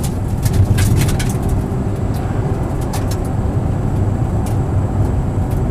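Nissan R33 GTR's twin-turbo straight-six running at speed, heard from inside the cabin together with tyre and road noise, with a few brief sharp clicks.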